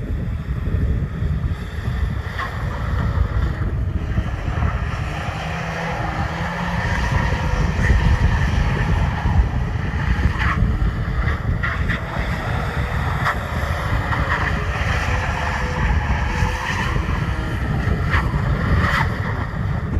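Subaru Sambar kei truck's small engine revving up and down as it spins donuts, heavy wind buffeting the microphone.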